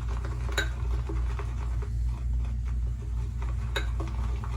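Synthetic shaving brush swirling and whipping soap lather in a shaving bowl, with sharp clinks of the brush against the bowl about half a second in and again near the end, over a steady low hum.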